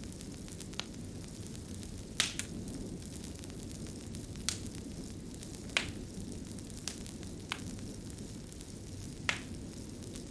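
A fire crackling: a steady low rushing with sharp, irregular pops, about eight of them, the strongest near the two-second mark, just before the six-second mark and near the end.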